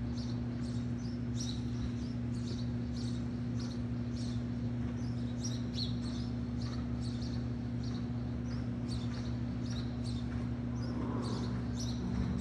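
Small birds chirping, short high chirps repeating irregularly about twice a second, over a steady low hum.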